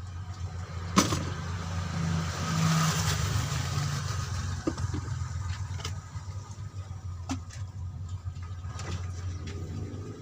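Steady low mechanical hum like a running engine, with a sharp click about a second in, a swell of hiss that rises and fades over the next few seconds, and a few lighter clicks after that.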